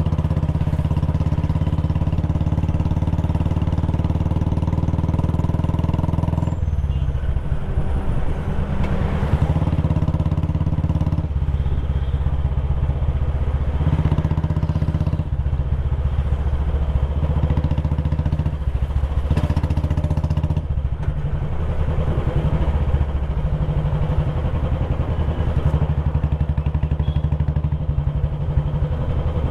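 Royal Enfield Bullet Classic 350's single-cylinder engine and exhaust running under way. The engine note is steady at first, then changes several times, from about six seconds in, before settling into a steady run again.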